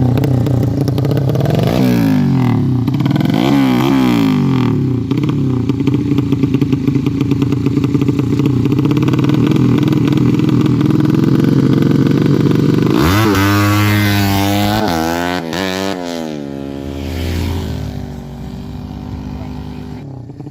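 The 200cc Yamaha Jupiter-based four-stroke drag bike engine, fed by a PWK Sudco 33 carburettor, runs loud while being revved for carburettor setting. It gives two quick throttle blips near the start, then holds a steady high rev for several seconds. A run of fast rev blips comes about two-thirds through, and it settles to a lower, quieter idle near the end.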